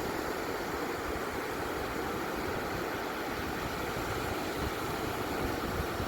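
Steady rushing noise of ocean surf on a beach, even throughout with no single wave standing out.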